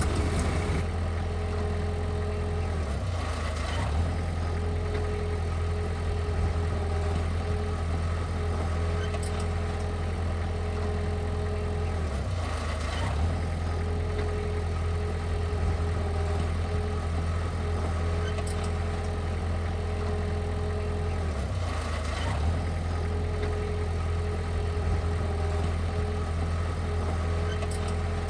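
Engine of heavy earthmoving equipment running steadily as a deep, even hum, with a brief change in the sound about every nine seconds.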